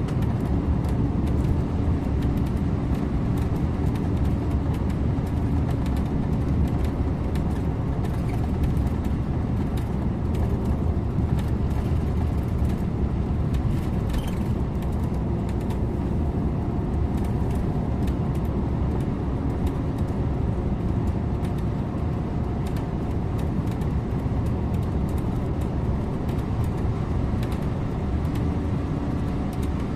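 Scania InterLink coach on the move: steady engine hum and tyre and road noise at a constant pace, with no sudden events.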